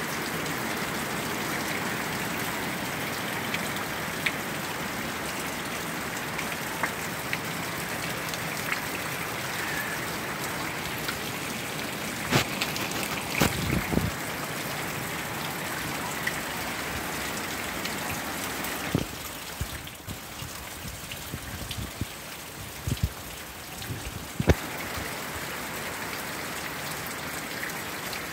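Steady tropical-storm rain falling and splashing, with a few sharp knocks around the middle. The hiss eases for several seconds past the middle, then comes back.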